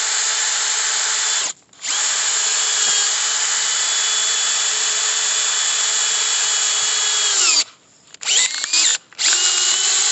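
Corded hammer drill driving a screw-cone log-splitter bit into a log, its motor running at a steady speed. It stops briefly about a second and a half in, runs on, then winds down near the eighth second, is given a few short bursts, and starts again near the end.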